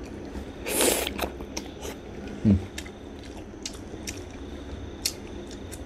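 Close-up chewing and biting of a mouthful of rice with fried egg and soy sauce: many soft, wet mouth clicks and smacks. There is a louder rustling burst about a second in and a short low vocal murmur midway.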